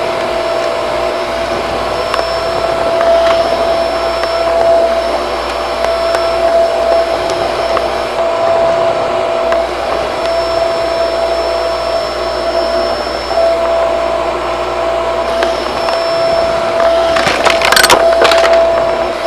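Shark vacuum cleaner running steadily with a constant whine. About two seconds before the end, a quick clatter of sharp rattles as something hard is sucked up.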